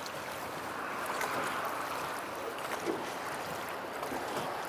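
Steady rushing of river water around a drifting fishing boat, an even hiss with no distinct events.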